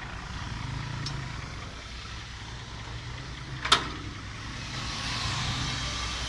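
Truck engine idling steadily, with one sharp click about two-thirds of the way through and a faint hiss building near the end.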